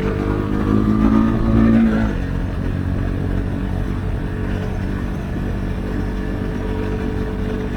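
Husqvarna Svartpilen 401's single-cylinder engine through an Akrapovic exhaust with the dB-killer removed: it rises in pitch under throttle for about two seconds, then the throttle closes sharply and it settles to a lower, rougher running note mixed with wind.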